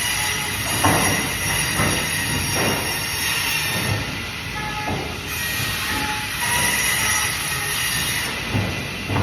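Band saw running and cutting fish, a steady high metallic whine with knocks now and then as the fish is pushed through the blade.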